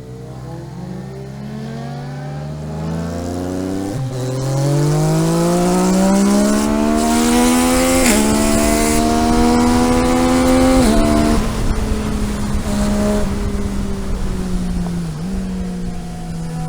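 A car engine, heard on board, climbs in pitch as the car accelerates. It drops back at upshifts about 4, 8 and 11 seconds in, then holds a steady pitch at cruising speed.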